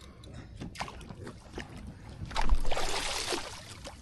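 Water splashing beside a kayak as a hooked fish, taken for a lingcod, is brought up to the surface, with a few short knocks on the hull; the splashing is loudest for about a second just past the middle.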